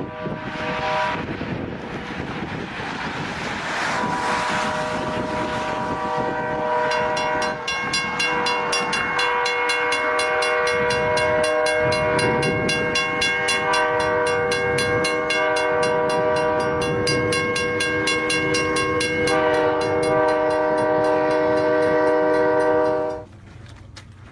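Locomotive air horn sounding one long chord that shifts pitch a few times, over a rushing noise from the train moving through snow. From about seven seconds in, a fast, even clicking of wheels joins the horn. Everything cuts off suddenly near the end.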